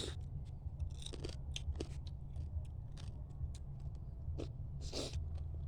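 Close-up eating sounds: chewing and biting with irregular crunches and wet clicks.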